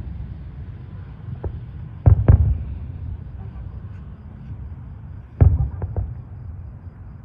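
Distant aerial fireworks bursting: two booms in quick succession about two seconds in, then another loud boom about five and a half seconds in, followed by a couple of smaller cracks, over a low steady rumble.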